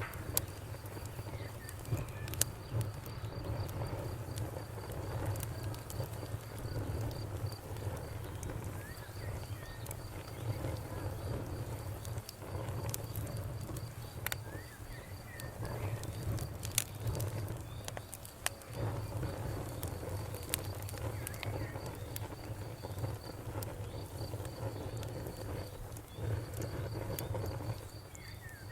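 Wood campfire crackling, with sharp pops scattered through it over a low steady rumble of the flames. An insect trills in a fast even pulse, and birds give short chirps now and then.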